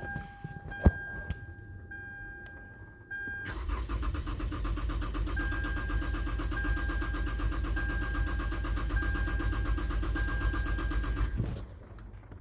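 Car starter motor cranking the engine in a rapid, even rhythm for about eight seconds without it catching, then stopping. The engine won't fire because of a bad fuel pump. A repeating electronic warning beep sounds throughout, with a sharp click about a second in.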